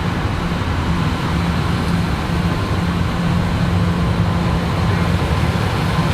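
Engine of a large farm machine running steadily at constant speed, a continuous low drone.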